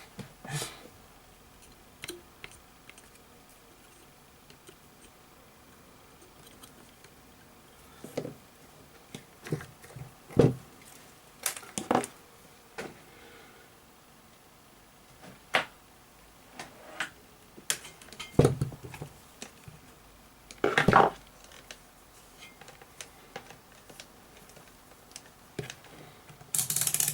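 Small tools and parts handled on a workbench during electronics repair: scattered light clicks, taps and clatters, about a dozen over the stretch, with a louder, longer clatter near the end.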